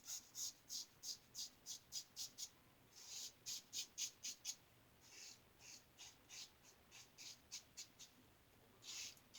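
Single-edge safety razor, a 1914 Ever Ready, scraping stubble in quick short strokes, about three a second, in three runs with brief pauses; the last run is fainter.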